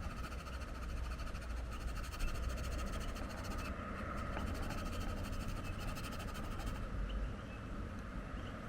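Wind buffeting the microphone: a low, uneven rumble that swells and eases, with a faint steady high hum underneath.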